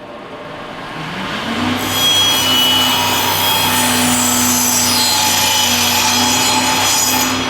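Power saw motor spinning up, then its blade cutting an angled end on a 1x6 board for about five seconds. The cutting noise stops shortly before the end while the motor keeps running.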